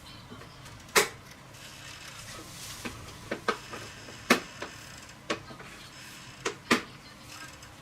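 A run of sharp, irregular clicks and knocks of hard objects, about nine in all, the loudest about a second in, just after four seconds, and near the end.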